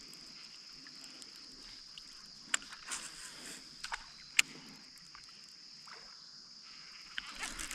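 Light ticks and small knocks of gear being handled in a kayak, the sharpest about two and a half and four and a half seconds in, over a steady high-pitched hiss.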